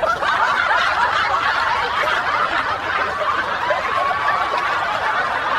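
Several people laughing together: a dense, continuous spell of chuckling and snickering.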